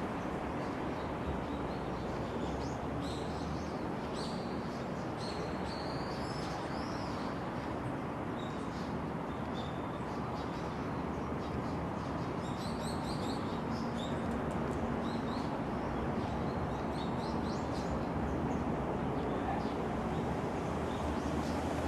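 Small birds chirping and twittering in quick short calls, clustered in two spells, over a steady background of outdoor noise with a faint low hum.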